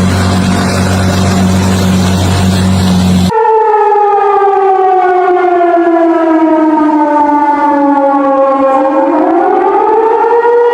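Loud steady rushing noise with a low hum, cut off abruptly about three seconds in by a civil-defence warning siren: one long wail that slowly falls in pitch and then rises again near the end.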